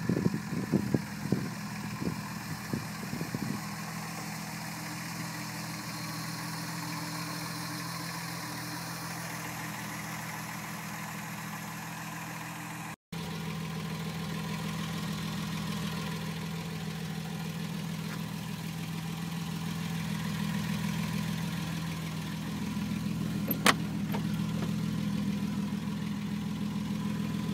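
Ford Granada engine idling steadily. A few sharp clicks in the first few seconds and one sharp click about three-quarters of the way through.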